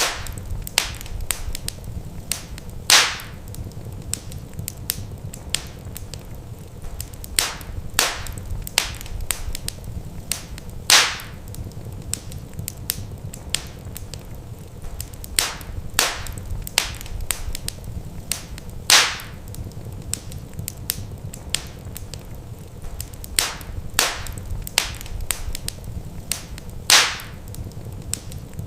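Wood fire crackling in a fireplace: a steady low rumble of flame with frequent sharp snaps and pops of burning logs, a louder pop about every eight seconds.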